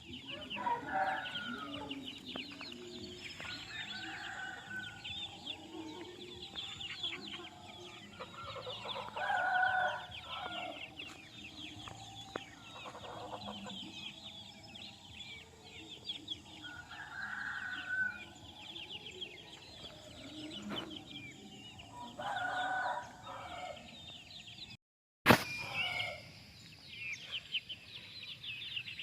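Newly hatched chicks peeping continuously, with several louder calls from adult chickens about a second long each. A brief dropout and a sharp click come about 25 seconds in.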